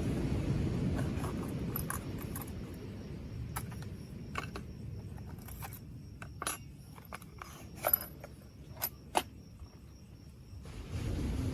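Scattered light clicks and clinks of small hard objects being handled, the loudest two about eight and nine seconds in, over a low steady rumble that fades away and returns suddenly near the end.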